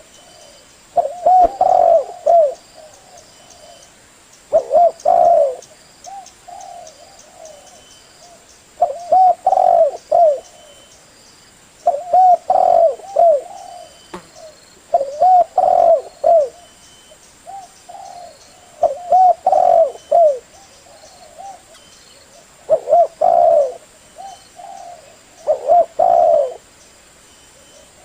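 Spotted dove cooing: a phrase of several rolling coos about every three to four seconds, with fainter coos between the phrases.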